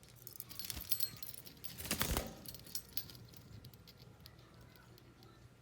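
Small metallic clattering and jingling, like a budgie toy or the cage being rattled, with a denser, louder rattle about two seconds in.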